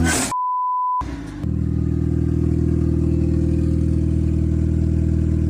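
A short, pure censor bleep tone, then an engine running steadily at constant revs.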